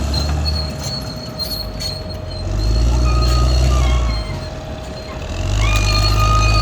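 Caterpillar D6R XL bulldozer's diesel engine working under load, surging twice with dips between. A steady high squeal joins as the engine picks up again near the end.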